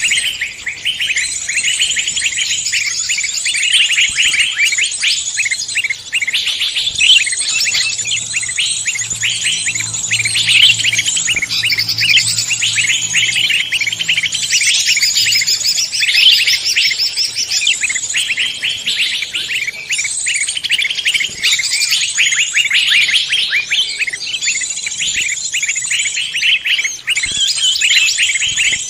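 Dense mix of many songbirds chirping and trilling rapidly and without a break, several species' songs layered together.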